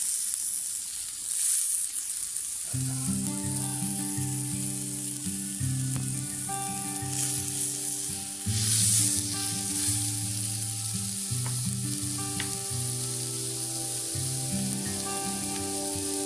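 Corned beef sizzling in a small frying pan, a steady hiss that starts suddenly and swells louder a couple of times. Background music with changing held notes comes in about three seconds in.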